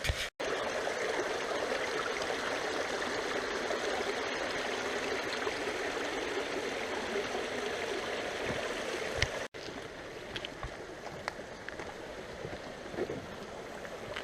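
Rushing creek water flowing in a steady rush. The sound cuts out briefly twice, and after the second break, about nine seconds in, it is quieter.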